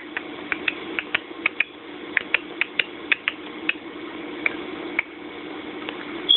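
A pet bird's beak clicking and tapping in sharp, irregular clicks, two to four a second with a short pause partway through, over a steady low hum.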